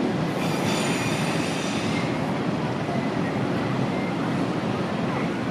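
Train running on the line with a steady rumble of wheels on rail. Brief high-pitched wheel squeal rides over it in the first couple of seconds.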